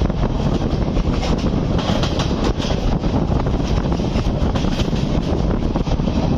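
Passenger train coach running at speed, heard from an open window: a steady noise of the wheels running on the rails, with wind buffeting the microphone.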